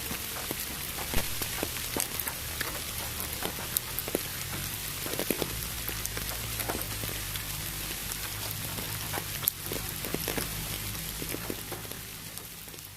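Rain recording with a steady hiss and many separate drop ticks, over a low steady rumble; it begins to fade out near the end.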